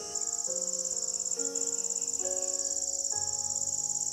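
Insects trilling in a loud, high, fast-pulsing chorus that starts just after the beginning and holds steady, over soft background music of sustained chords that change about once a second.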